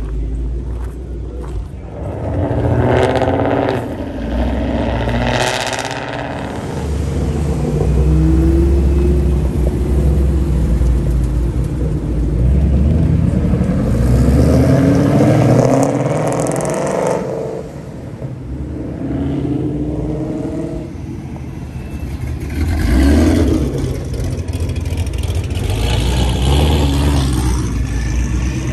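Ford Mustangs' engines running and revving as the cars pull away and drive past, the exhaust note rising in pitch as they accelerate.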